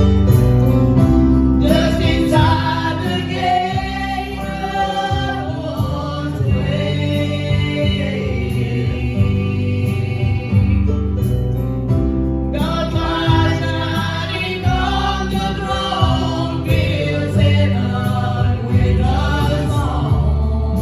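Gospel group singing together over instrumental accompaniment with a steady bass line. The voices come in about two seconds in, break briefly around the middle, then carry on until near the end.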